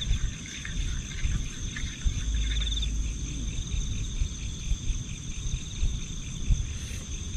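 Crickets and other insects chirring steadily: a continuous high trill, with a pulsing call repeating a few times a second. Low rumbling noise runs underneath.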